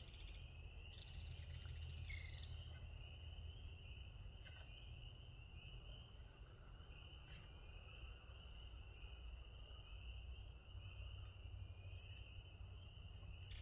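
Faint, steady chorus of insects chirping, an unbroken high trill that pulses finely, with a few faint clicks over it.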